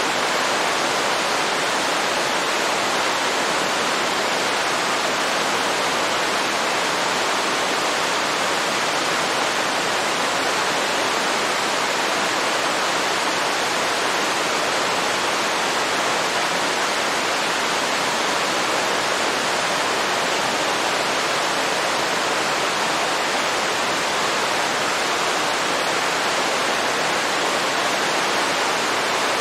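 A waterfall's falling water rushing as a steady, even hiss that never changes.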